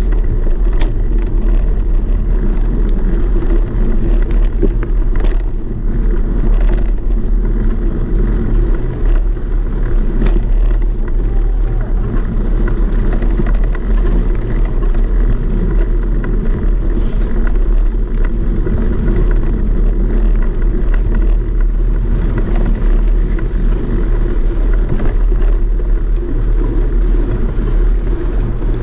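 A vehicle's engine running steadily as a constant low rumble, with a few faint clicks and knocks here and there.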